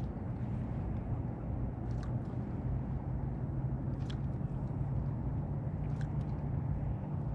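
Steady low motor hum, its pitch stepping up slightly about three seconds in, with a few faint ticks roughly every two seconds.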